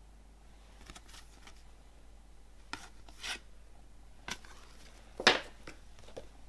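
Box set contents being handled: scattered light rustles, rubs and taps of cardboard and paper, with one louder knock a little over five seconds in.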